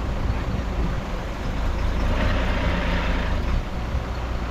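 Diesel engine of heavy earthmoving machinery running steadily with a low rumble. About two seconds in, a rush of noise rises for a second or so.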